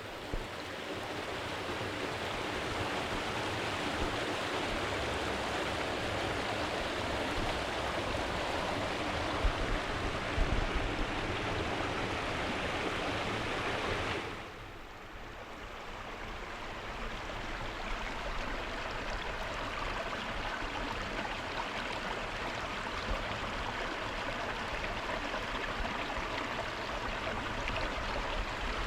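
Mountain stream flowing steadily, an even rush of water; the level dips for a moment about halfway through, then builds back.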